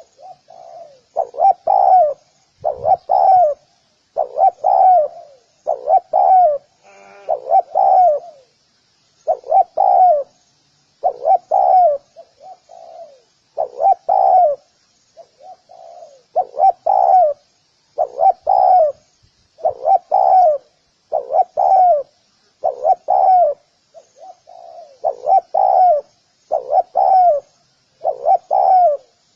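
Spotted dove cooing, a repeated low call of paired and single notes, about one to two a second with brief pauses, and a faint high hiss or insect buzz in the background.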